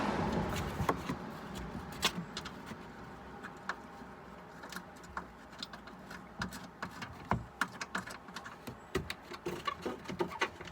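Irregular light clicks and taps of hands working the plastic under-engine tray and its fixing bolts into place. A broad rushing noise fades out in the first second.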